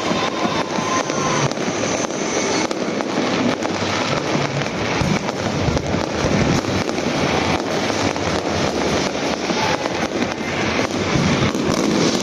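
Fireworks display: a continuous rapid barrage of bangs and crackles with no let-up.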